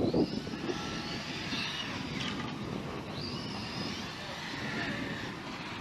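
Small engine of the radio-control model Typhon running, its whine rising and falling in pitch as the revs change.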